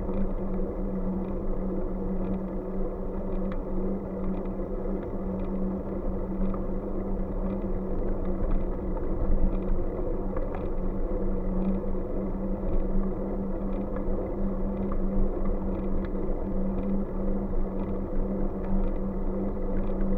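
Steady running noise of a bike on the move: a constant hum with rumble underneath and faint light ticks recurring every second or so.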